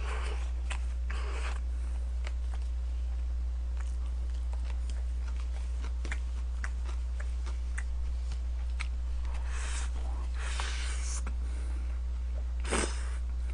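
A man chewing a mouthful of rice and chicken galbi from a convenience-store lunch box, with small clicks of wooden chopsticks on the plastic tray and a few brief bursts of noise, over a steady low hum.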